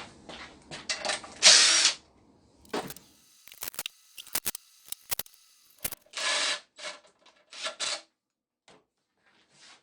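Ratchet wrench working the bolts on a Johnson/Evinrude 50 hp outboard's exhaust housing: a loud scraping burst, then a run of quick clicks, then a few short scraping bursts near the end.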